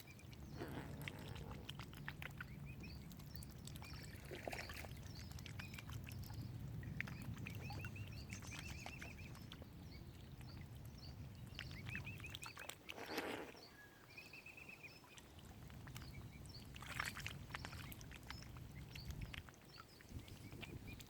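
Birds calling outdoors, with repeated short warbling chirps and a few louder brief calls, over a steady low rumble.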